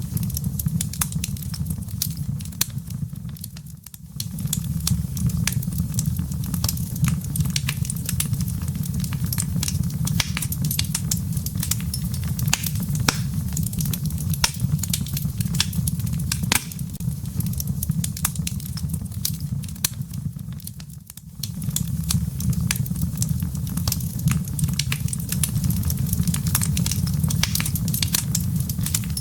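Wood fire burning in a fireplace: embers and logs crackling and popping over a steady low rumble of the flames. The sound dips briefly twice, about four seconds in and again about twenty-one seconds in.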